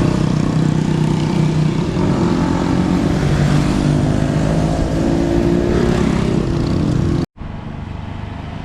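Honda XR150 single-cylinder engine running steadily under way, with road and wind noise, its pitch lifting slightly about five seconds in. Near the end the sound cuts off suddenly and gives way to quieter, even road noise.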